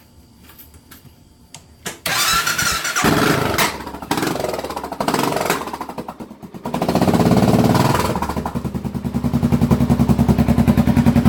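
Suzuki Boulevard S40 single-cylinder motorcycle engine started about two seconds in, breathing through an aftermarket Emgo short reverse cone muffler that makes it louder than stock. It runs unevenly with two dips, surges about seven seconds in, then settles into a steady idle with rapid, even exhaust pulses.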